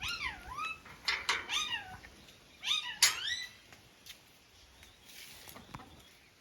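An animal's calls: three short, clear calls that each rise and fall in pitch, one after another, then only faint sounds.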